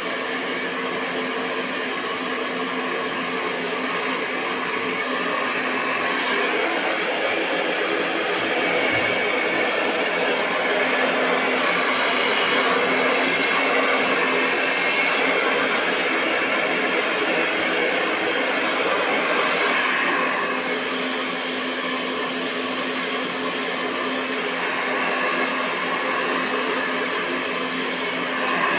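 Hair dryer running continuously: a steady rush of air over the motor's hum, swelling a little in loudness now and then.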